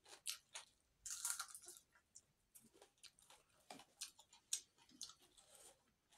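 A person eating rice and fried fish by hand, close to the microphone: soft chewing and scattered small clicks and crackles as the rice is mixed with the fingers on the plate, with a louder crunch a little after a second in.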